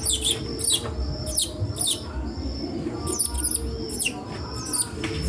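A small songbird, a bigodinho (lined seedeater), singing a fast series of high, quick downward-sweeping notes.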